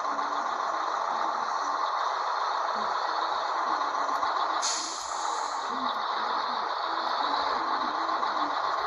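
Scania 112H truck running with steady mechanical and road noise, and a short hiss of air from its air brake system about five seconds in.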